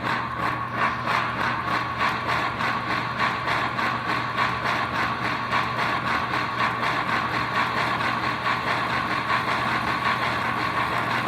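Digital steam-locomotive sound from the speaker of an American Flyer K5 Pacific model train fitted with ERR TMCC electronics: quick, even chuffing as the locomotive runs, over a steady low hum.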